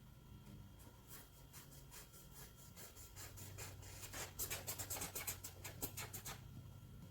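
Coloring tool scribbling on paper: rapid back-and-forth coloring strokes, about five a second, getting louder and quicker in the second half before stopping near the end.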